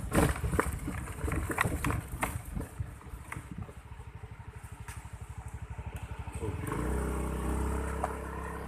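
Small motorcycle engine idling with an even, low beat, then revving up and running louder from about two-thirds of the way through. Sharp knocks and clicks come in the first few seconds.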